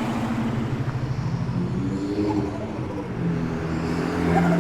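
Car engines as cars drive out of a car park: one runs at a steady note, then a second engine rises in revs and pulls away about three seconds in.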